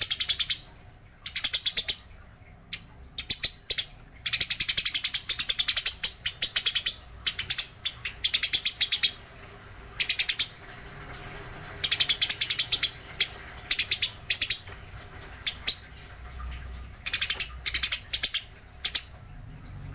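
Eurasian tree sparrow chattering excitedly in its aggressive 'fighting' mode: fast trains of harsh chirps in bursts of half a second to a few seconds, broken by short pauses.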